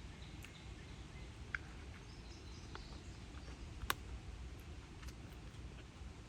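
Quiet outdoor ambience: a steady low rumble with a few faint, short chirps and a sharp click about four seconds in.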